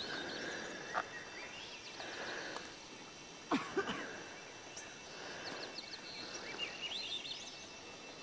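Small songbirds singing, short chirping and trilling phrases repeated every couple of seconds, with a few faint sharp knocks, the loudest about three and a half seconds in.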